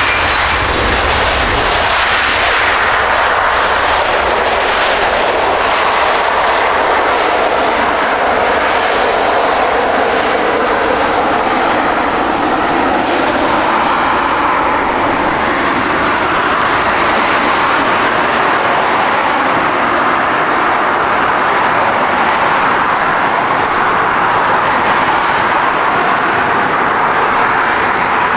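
Boeing 767-400ER twin-jet airliner's engines heard loud and steady during its landing, a dense jet noise with no sharp breaks.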